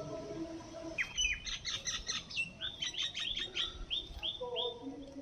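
A small songbird singing a quick run of high, repeated chirping notes for about four seconds, starting about a second in. A fainter, lower held tone sounds briefly at the start and again near the end.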